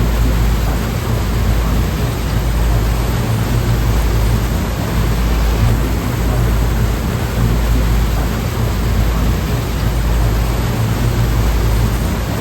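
Ocean waves in the Taiwan Strait: a steady, dense rush of surf noise with a deep low rumble and no distinct breaks standing out.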